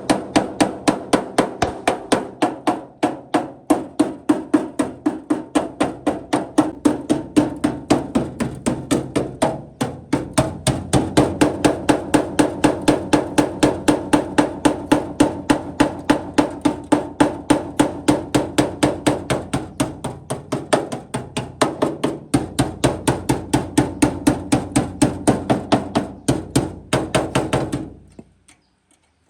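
A hammer striking the truck cab's sheet metal in a fast, steady series of blows, about four or five a second, each with a metallic ring. The hammering stops abruptly near the end.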